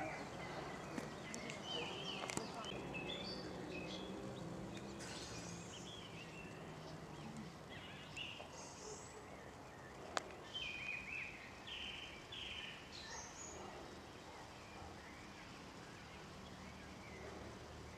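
Birds chirping in short, scattered calls over a faint outdoor background noise, with a single sharp click about ten seconds in.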